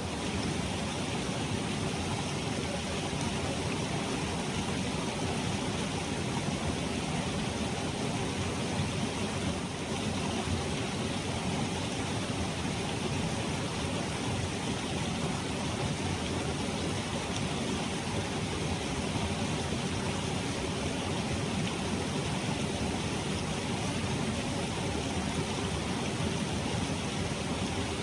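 Clear mountain stream flowing: a steady, unchanging rush of water.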